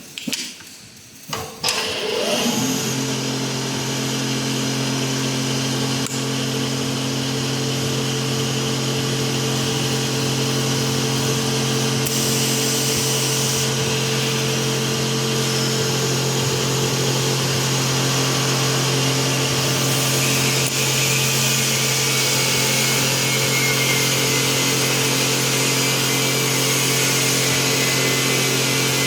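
CNC automatic-feed wood lathe: a few sharp knocks, then about two seconds in the machine starts, rising quickly in pitch, and runs steadily with a constant motor hum under a high hiss that grows stronger partway through.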